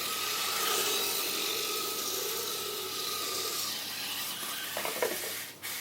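Modified WLToys K989 mini RC cars driving, their small electric motors and gears whining steadily over a hiss of tyre and drivetrain noise. A few sharp knocks come near the end, then the sound drops away.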